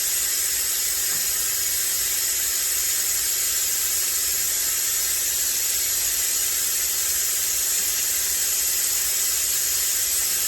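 Steady hiss with a faint low hum, unchanging throughout, from equipment running in the background.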